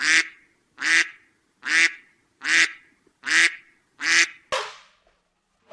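An animal's loud, harsh call, repeated six times at an even pace of a little under one a second, with a weaker seventh call shortly after.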